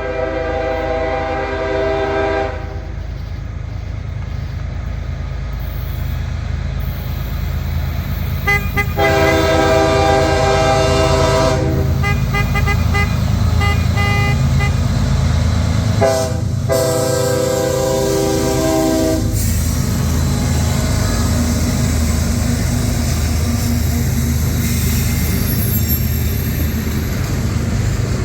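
Lead locomotive's K5HL air horn on a CSX GE ES40DC blowing long, long, short, long, the grade-crossing signal, over the steady low rumble of the approaching diesel freight train. After the last blast, the locomotive and the rolling cars keep on rumbling.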